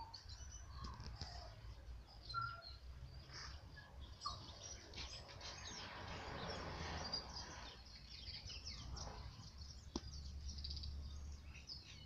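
Tui calling from the trees: a scattered run of short whistles, clicks and chirps at varying pitches, with a rushing noise that swells and fades around the middle and a low rumble underneath.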